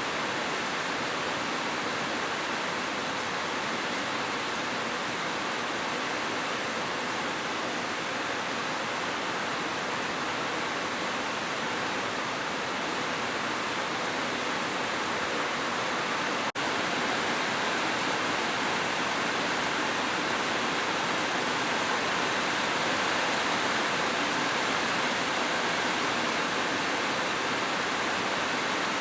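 Heavy rain falling steadily, a dense even hiss with no separate drops standing out. A momentary dropout in the sound a little past halfway, after which it runs slightly louder.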